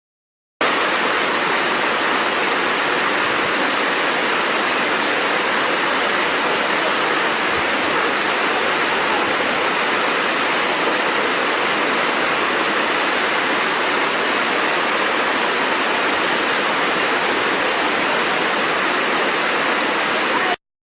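Waterfall, a steady, even rush of falling water, cutting in just after the start and cutting off abruptly near the end.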